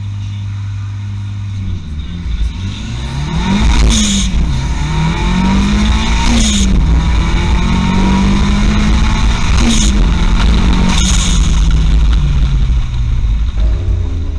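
Turbocharged Škoda 120 idling at the start line, then launching about two seconds in and accelerating hard. Revs climb and fall back at about three gear changes, each change marked by a short burst of hiss. The engine eases off near the end.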